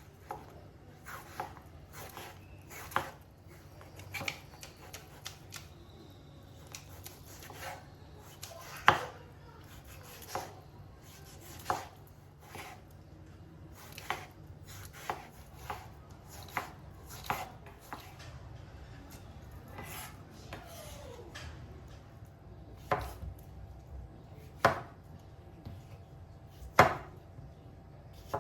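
Knife chopping food on a cutting board: irregular single strikes, unevenly spaced, a few of them much louder.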